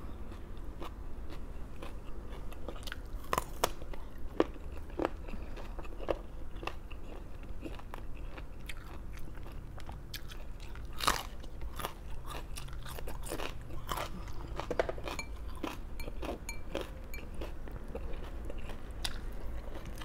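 Close-up crunching and chewing of raw vegetables: irregular crisp bites and crunches, a few of them louder than the rest.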